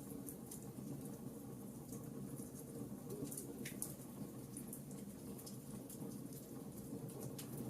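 Wood fire crackling, with many small sharp pops scattered irregularly, over a steady bed of rain.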